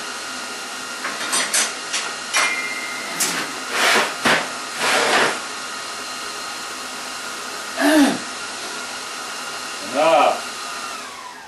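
Steady whirring of an electric motor driving a fan or blower, with a few knocks and clatters in the first half and two short whine-like sounds later. Near the end the motor is switched off and winds down, its pitch falling as it slows.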